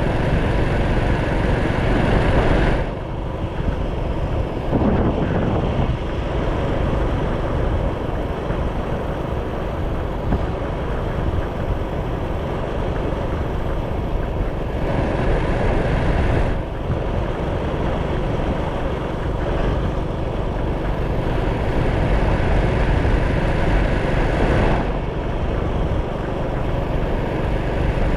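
Motorcycle on the move: wind rushing over the action camera's microphone with the engine running underneath. The rush eases and swells a few times.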